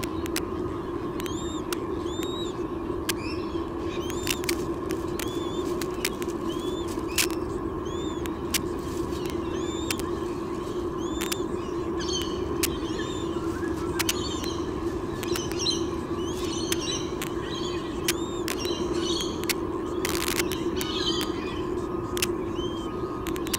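Birds chirping: short high arching chirps about once a second, with a busier mix of other bird calls in the second half. Underneath are a steady low hum and frequent sharp clicks.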